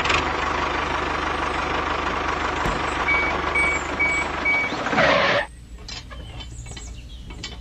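A small machine's motor running steadily, with four quick, evenly spaced beeps like a reversing alarm in the middle; the motor noise drops away about five and a half seconds in.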